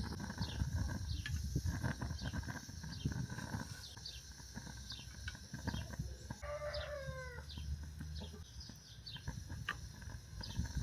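Birds chirping over and over in short, falling peeps, with one longer descending call about six and a half seconds in, over low rumbling and occasional knocks.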